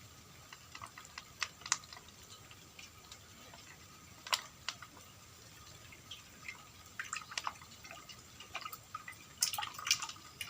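Oil just poured into a kadai, with scattered faint ticks and drips and a quick run of clicks near the end.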